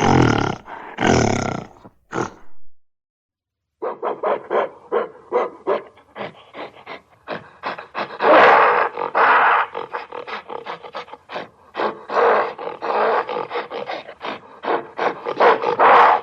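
Gorilla calling with loud roars. The calls break off for about a second near the three-second mark, then come back as a quick run of short sounds with longer loud roars mixed in.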